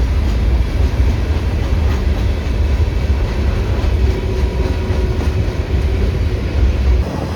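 CPKC freight train passing close by: a loud, steady low rumble with noise spread across the range, easing slightly near the end.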